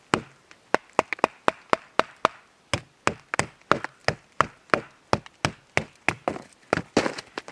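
Rapid, evenly spaced sharp knocks on wood, about three to four a second: a small knife being driven into the outside of a log to split off small pieces.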